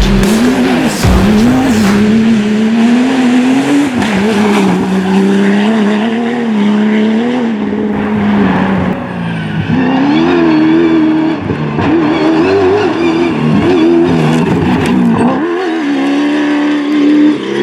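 Rally car engine running hard, its revs climbing and dropping again and again as it is driven through a stage, with several sharp dips in pitch.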